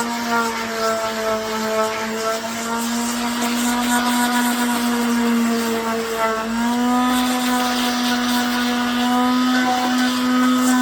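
A small handheld electric tool's motor running steadily with a constant hum, its pitch stepping up a little about two-thirds of the way through as its speed changes.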